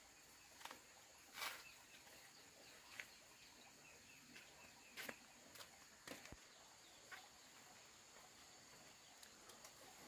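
Near silence: faint outdoor ambience with a steady high hiss and a scattering of soft, brief taps and rustles.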